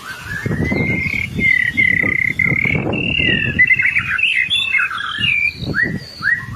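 White-rumped shama singing a continuous, varied song of clear whistles: long held notes at first, then quick sliding phrases, with a low rumbling noise underneath.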